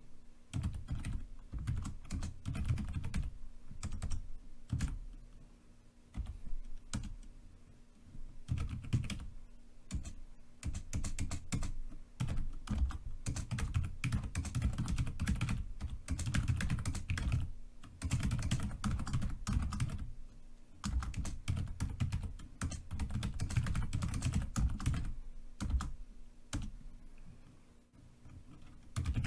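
Typing on a computer keyboard: quick runs of keystrokes, each with a click and a low thud, broken every few seconds by short pauses.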